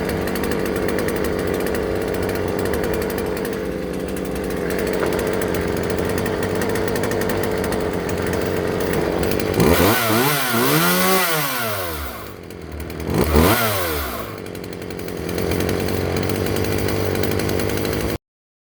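Craftsman two-stroke chainsaw engine idling steadily, then revved up and back down twice in quick succession about halfway through before settling back to idle, running after its fuel lines were replaced.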